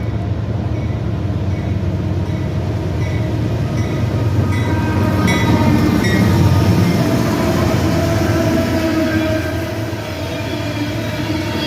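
Amtrak Pennsylvanian passenger train rolling past close by: a steady, loud rumble of wheels on rail that swells toward the middle, with faint thin wheel squeal from the curve.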